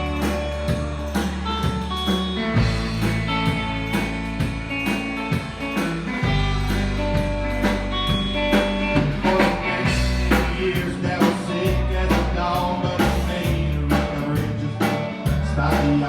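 Instrumental break of a blues-rock band song: a lead guitar plays sustained notes over bass and a drum kit, with no vocals.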